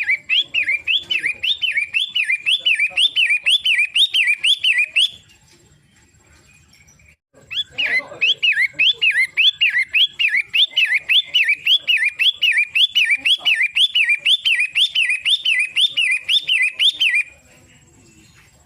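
Long-tailed shrike (pentet) calling in two long runs of fast, repeated rising-and-falling notes, about three a second. The runs are broken by a pause of a couple of seconds.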